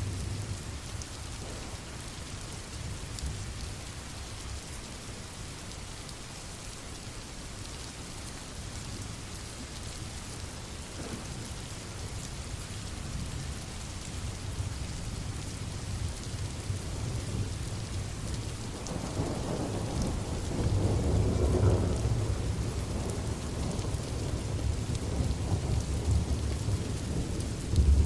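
Steady rain with low rolling thunder. A louder roll of thunder swells about two-thirds of the way through.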